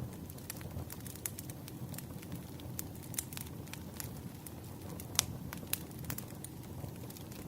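Firewood burning: a steady low rumble with frequent, irregular sharp crackles and pops. The loudest pop comes about five seconds in.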